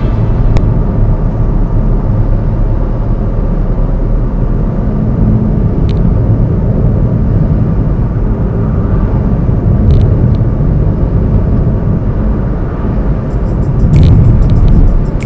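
A car driving, with the steady low rumble of its engine and tyres on the road.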